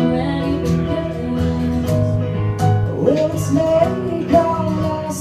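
Live acoustic song: a guitar being played with a voice singing over it.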